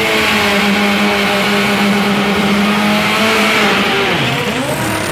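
Turbocharged drag car's engine held at high revs during a burnout, with the hiss of spinning tyres over it. Near the end the revs drop sharply and climb again.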